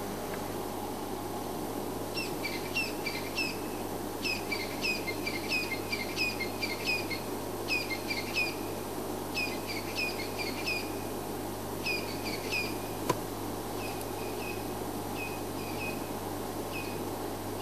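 Birds calling in repeated short bursts of three to five high, squeaky, down-slurred notes, fading over the last few seconds, over a steady low hum. A single sharp click about two-thirds of the way through.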